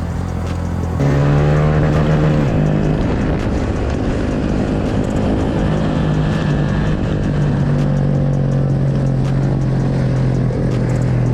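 Mini bike engines running steadily, getting louder about a second in.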